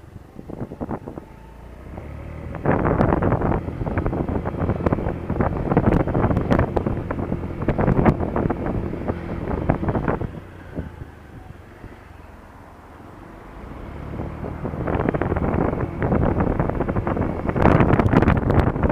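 Wind buffeting the microphone of a helmet or action camera while riding a Honda Dio scooter, with the scooter's engine running underneath. The rush grows loud about three seconds in, eases off for a few seconds past the middle, then builds again near the end as riding speed changes.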